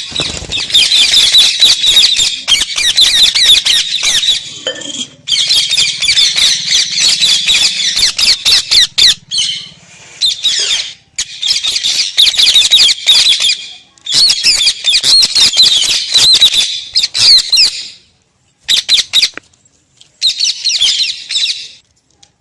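Pet parrot chattering and squawking in long, rapid runs of high calls, broken by short pauses. The runs get shorter and sparser near the end.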